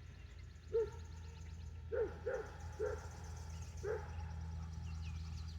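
A dog barking: about six short single barks at uneven intervals, over faint, rapid high chirping.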